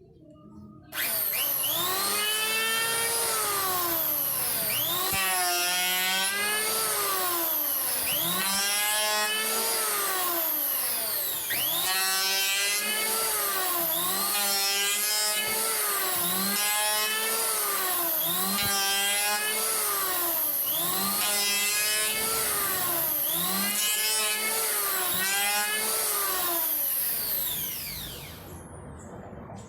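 Makita M1902 electric hand planer starting up and running, its high motor whine dropping in pitch and recovering about every three seconds as it takes repeated passes over wood, then winding down near the end.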